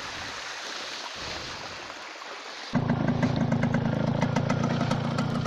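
A steady rush of water-like noise, then about two-thirds of the way through a motorcycle engine suddenly starts and runs at a low, even idle.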